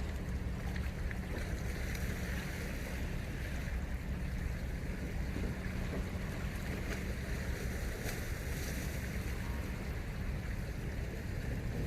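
Steady seaside noise: wind rumbling on the microphone over the wash of sea waves.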